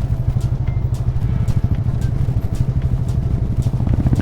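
Motorcycle engine running steadily while riding, a low, rapid pulsing of firing strokes.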